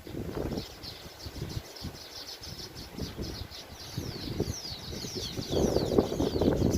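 Weaver birds chattering: a fast run of short, high, falling chirps that grows busier toward the end. Low gusts of wind on the microphone grow louder in the last second or so.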